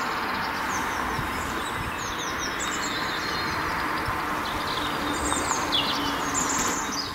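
Small songbirds singing: repeated high chirps and short falling notes, over a steady background hiss of outdoor noise.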